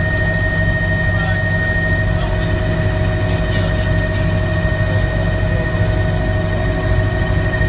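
Helicopter cabin noise heard from inside: a steady, loud low drone from the rotor and engine, with a constant high-pitched whine over it.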